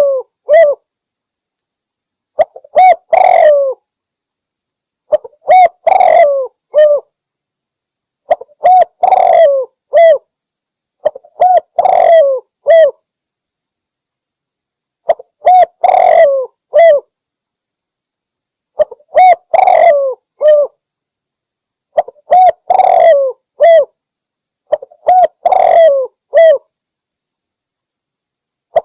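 Spotted dove (Javan derkuku) cooing: about eight repeated multi-note coo phrases, one every three seconds or so, with a slightly longer pause near the middle. A faint steady high whine lies beneath.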